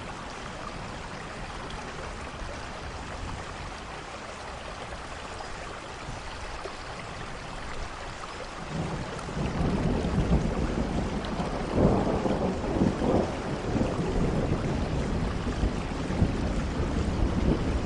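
Steady rain falling, then about halfway a long rumble of thunder builds up low and heavy, swelling several times over the rain.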